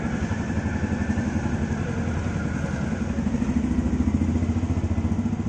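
Benelli Imperiale 400 single-cylinder motorcycle engine idling, its exhaust giving a steady, even beat of pulses that swells slightly about halfway through.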